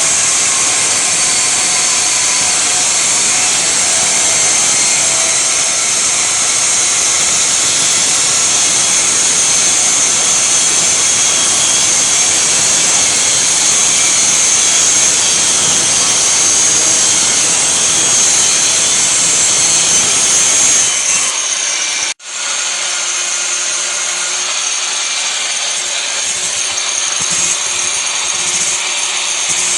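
Angle grinder cutting into the steel stock silencer of a Royal Enfield Classic 350 BS6 exhaust: a steady, loud, high-pitched grinding whine. About 21 seconds in the sound changes, drops out for a moment, and a lighter, thinner sound follows.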